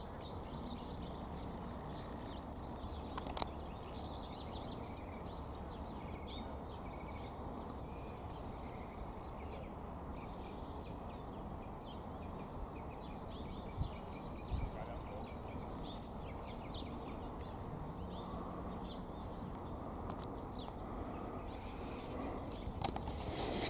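A small tit calling over and over: short, high chirps, each a quick downward sweep, about one a second, over a steady low background noise. A sharp click comes near the end.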